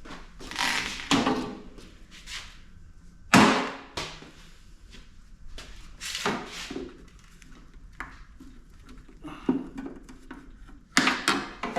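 Irregular knocks and clunks from tools and parts of a PTAC air-conditioner being handled as it is taken apart, the loudest about three seconds in.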